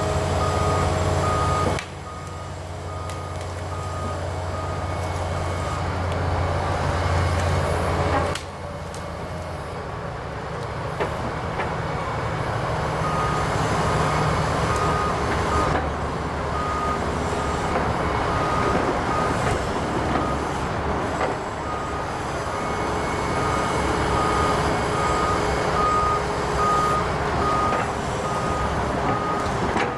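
Volvo ECR145EL excavator's diesel engine running under work, with its travel alarm beeping about twice a second. The beeping stops for several seconds in the middle, and the engine sound changes abruptly twice in the first third.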